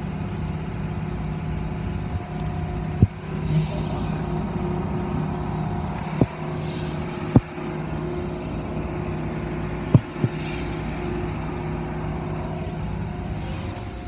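Car wash machinery running with a steady hum, with short hissing rushes of spray or air every few seconds and four sharp knocks.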